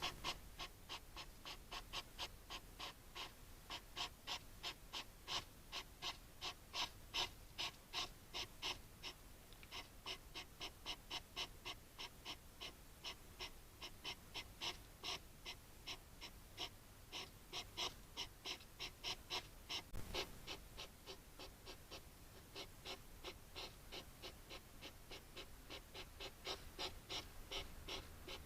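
A hedgehog huffing in a fast, even series of short breathy puffs, about four a second, with a brief pause about nine seconds in.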